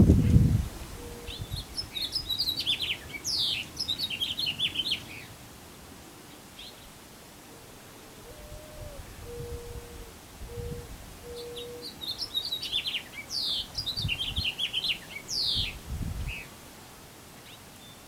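A songbird singing two long phrases of quick high notes and falling whistles, one near the start and one about two-thirds of the way in.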